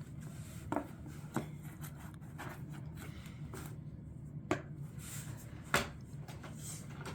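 Puzzle pieces being handled and set down on a tabletop: a few sharp, separate taps and clicks, the loudest near the start and two more past the middle, over a steady low hum.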